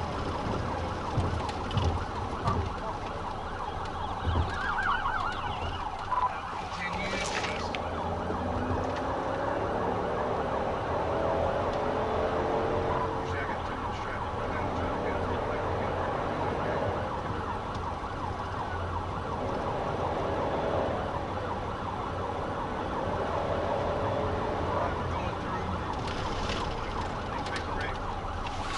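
Police car siren wailing, its pitch rising and falling over steady engine and road noise.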